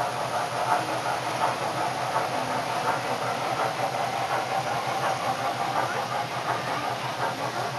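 Model train running on a layout's track: a steady motor hum with a hissing band and light, irregular clicking from the wheels on the rails.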